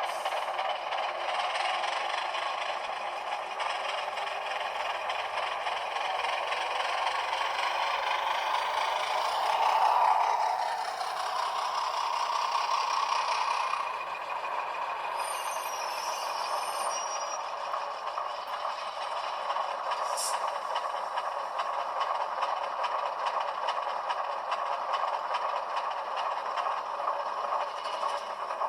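HO-scale Atlas ALCO HH600/660 model locomotive running with its LokSound V5 diesel sound played through a tiny sugar cube speaker. The sound is thin, with little bass, and mixes with the rattle of the model's wheels on the track. It swells briefly about ten seconds in.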